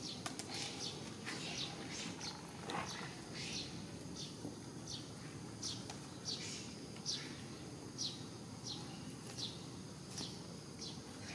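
A bird chirping over and over: short high notes, each falling in pitch, about one or two a second, with a few faint clicks near the start.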